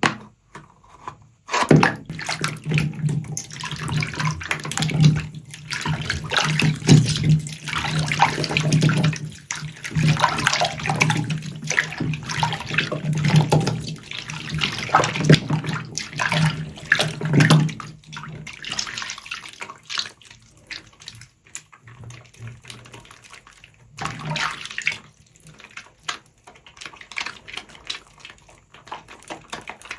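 Wet, soapy sponge squeezed and worked in water, squelching and sloshing. It is busy through the first half, softer after about eighteen seconds, with a short louder burst near twenty-four seconds.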